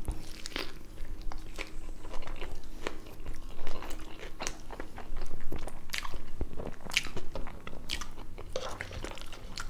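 Close-miked eating: a bite into a double bacon cheeseburger, then chewing with many irregular wet mouth clicks.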